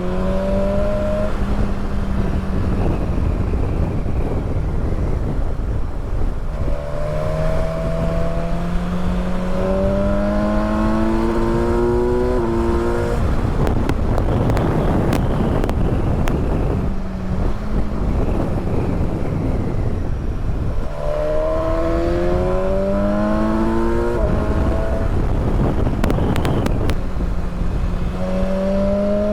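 Motorcycle engine accelerating through the gears, its pitch rising steadily and dropping back at each shift several times, under a constant rush of wind noise.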